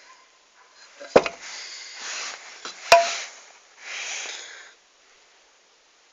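Two sharp metal knocks about two seconds apart, the second ringing briefly, with scraping and rustling of metal parts or tools between and after them.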